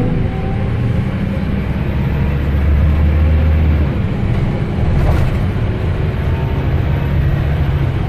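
Scania K270UB Omnilink single-decker bus's diesel engine running under way, heard from inside the bus. Its low drone changes pitch twice, and there is a single sharp knock about five seconds in.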